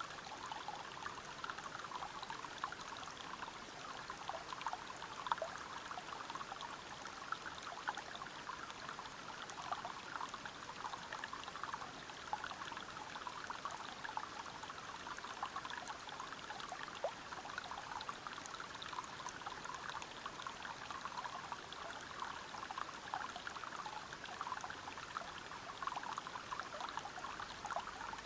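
Water flowing steadily over rocks: a continuous rushing with many small irregular splashes and trickles.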